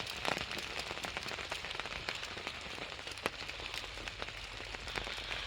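Steady rain falling, with individual drops tapping sharply on nearby surfaces at irregular moments.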